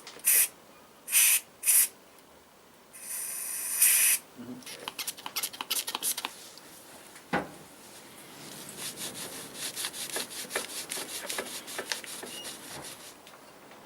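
Cloth wiping down a motorcycle swing-arm part with pre-paint cleaner: fast, irregular rubbing strokes in two spells. There are a few short hissing bursts in the first four seconds and a single knock about halfway through.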